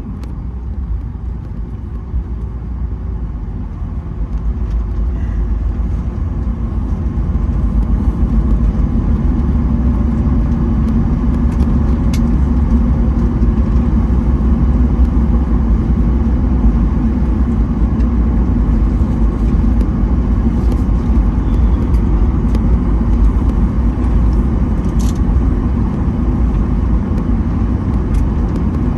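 Cabin noise inside a Boeing 737-900ER airliner during its arrival into Atlanta: a steady, deep rumble of engines and airflow. It grows louder from about four to eight seconds in and holds there, with a few faint clicks.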